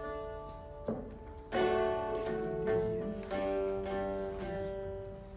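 Irish traditional tune played on plucked string instruments: single ringing notes, then a fuller chord about a second and a half in, with more notes following.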